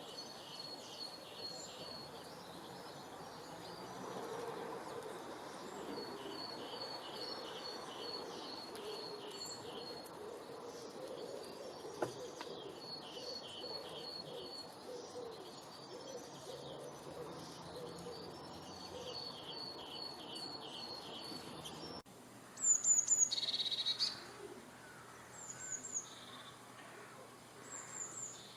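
Wild birds singing over a steady outdoor hiss: phrases of rapid, evenly spaced high notes repeat every few seconds. About three quarters of the way through, the sound changes abruptly to louder, sharper chirps that fall in pitch, several times.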